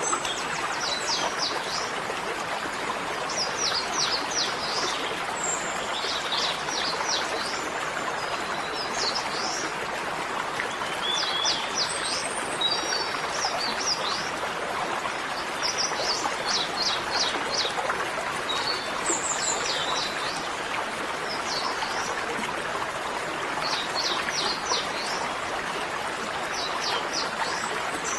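Birdsong over running water: a bird repeats short phrases of quick high chirps every couple of seconds above a steady rush of flowing water.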